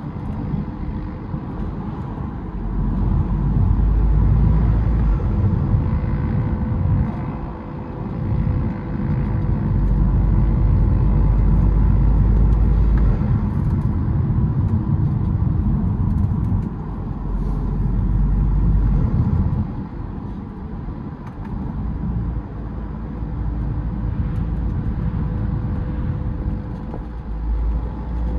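BMW E92 320d's four-cylinder turbodiesel, breathing through a K&N cold air intake, being driven: a low rumble swells under acceleration four times and eases off in between.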